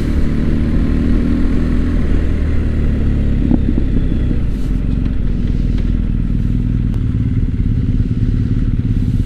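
BMW R1250 GS boxer-twin engine running at steady low revs while riding, with a brief knock about three and a half seconds in.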